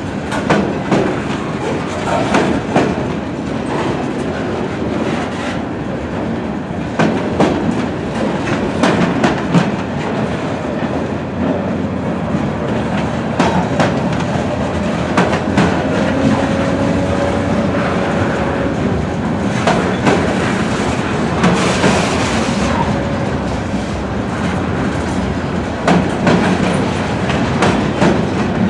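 Freight train flatcars loaded with steel pipe rolling steadily past, their wheels clicking irregularly over the rail joints, with a faint brief wheel squeal about two-thirds of the way through.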